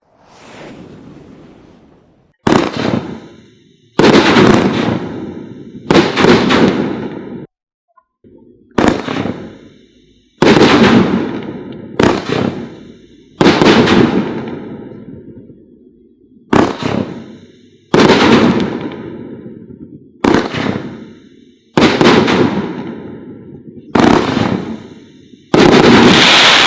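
Brothers Fireworks "Last Man Standing" consumer firework cake firing: a dozen or so loud booming reports, one every second or two, each fading out in a long echoing tail.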